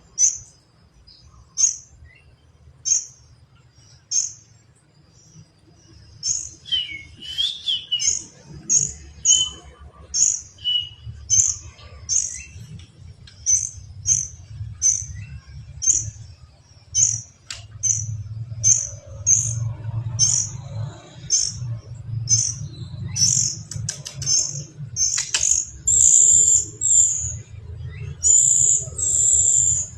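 Small songbird, a kapas tembak, giving short, high chirps over and over, about one or two a second. They are sparse at first and grow louder and more frequent toward the end.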